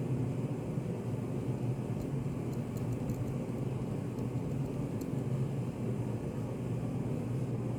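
Study-cafe room ambience: a steady low hum, with a few faint light clicks between about two and five seconds in.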